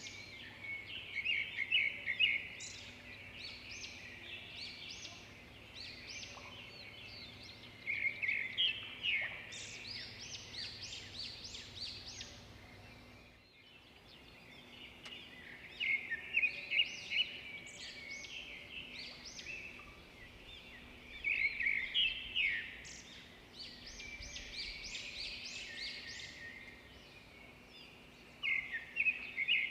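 Wild birds singing and chirping, with loud fast trilled song phrases coming back about every six seconds over a chorus of quieter chirps.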